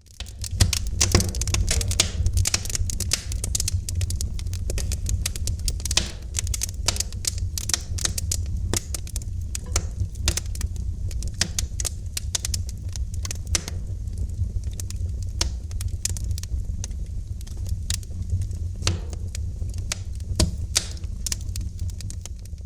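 Wood fire in a fireplace crackling: a dense, irregular run of sharp pops and snaps over a steady low rumble of the flames.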